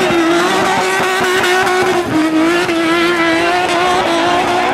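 Car engine held at high revs while the car spins doughnuts, over steady tyre noise; the revs dip briefly about two seconds in and then climb back.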